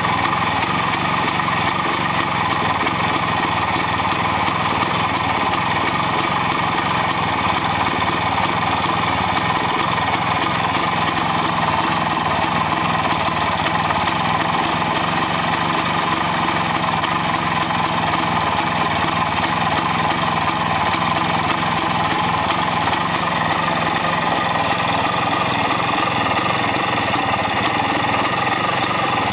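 Soviet IZh-56 motorcycle's single-cylinder two-stroke engine running steadily at idle.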